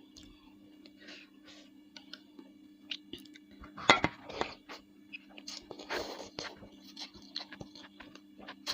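Close-miked chewing of bakso meatballs: wet mouth smacks and small clicks at an irregular pace, with a sharp knock a little under four seconds in, over a faint steady low hum.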